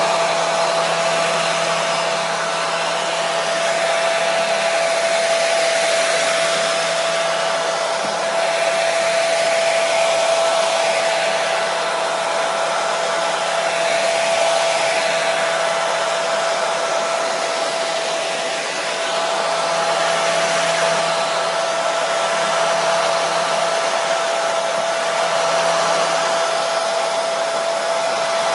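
Hair dryer running steadily: a constant rush of air with a steady motor whine, played as white noise to settle a baby.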